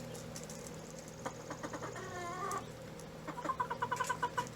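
Chickens clucking while they feed on treats. A short wavering call comes around the middle, and a quick run of clucks follows near the end.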